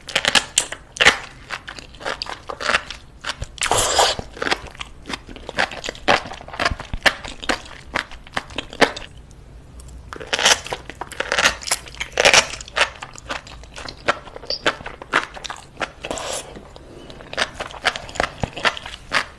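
A person chewing and biting raw octopus close to the microphone. Many sharp clicks and smacks come in irregular clusters, with short quieter gaps between mouthfuls.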